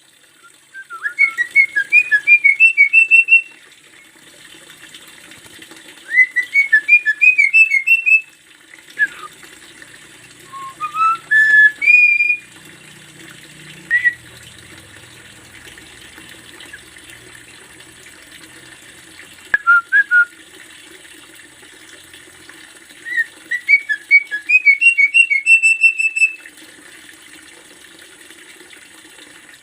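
Javan myna singing: phrases of quick whistled notes, mostly rising runs, repeated every few seconds with short gaps between them.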